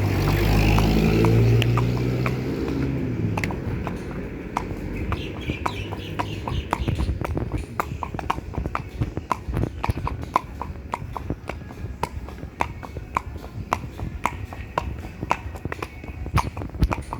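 A horse's hooves clip-clopping at a walk, a few sharp strikes a second, with a low hum fading out over the first few seconds.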